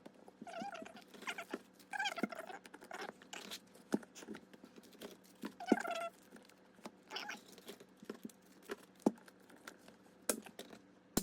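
Plastic binder pages being handled and worked onto the rings: scattered clicks and rustles, with several short, high, wavering squeaks spread through.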